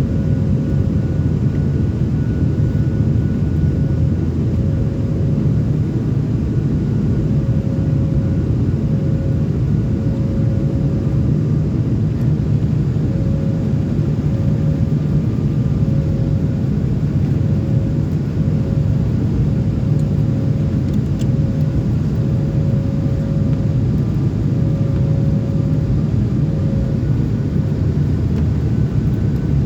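Steady airliner cabin noise: a low rumble of engines and airflow with a faint steady whine over it.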